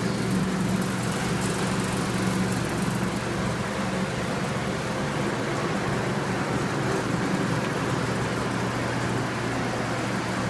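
Garb-el GHV-1000 10 HP hammermill garbage disposal running steadily, with a constant motor hum over an even rushing noise.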